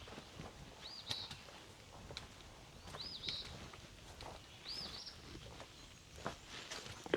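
A songbird repeating a short high call three times, about two seconds apart: an arched note that rises and falls, then a brief burst. Scattered footsteps and small knocks underneath.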